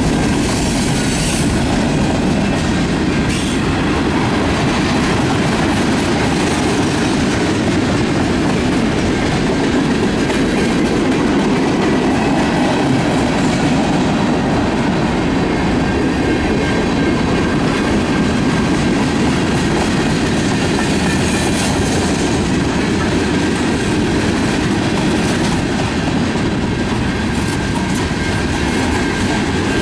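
Freight train cars, covered hoppers and tank cars, rolling past close by: a loud, steady rumble of steel wheels on the rails with clickety-clack. A faint, thin squeal of wheels runs through it.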